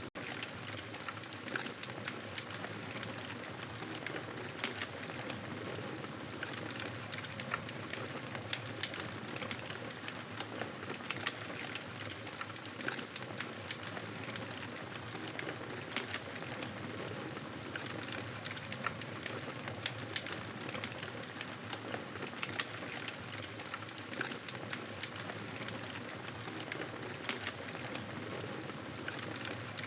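Campfire crackling steadily: frequent small sharp cracks over a continuous hiss, with a momentary dropout at the very start.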